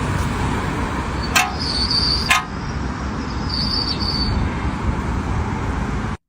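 Steady vehicle and road noise, with two sharp clicks about a second apart and two short high-pitched whines.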